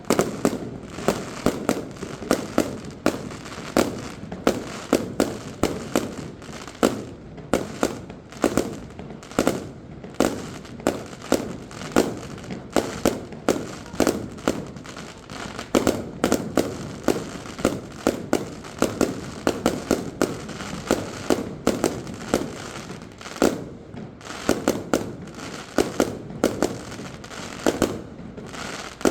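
Fireworks display: a dense, rapid run of aerial shell bursts and crackling reports, several bangs a second, going on without a break.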